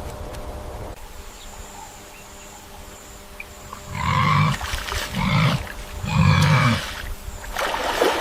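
A large animal gives three short, deep calls in quick succession, starting about four seconds in, each lasting about half a second.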